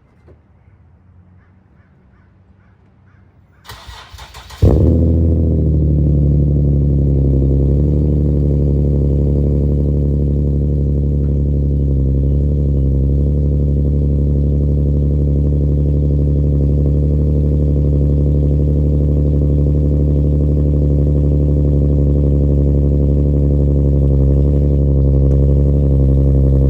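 Infiniti G37S's 3.7-litre V6 cold-started through an ISR single-exit exhaust with Y-pipe and no resonator. About a second of starter cranking comes nearly four seconds in, a sharp jump in loudness follows as the engine catches, and then it idles loudly and steadily.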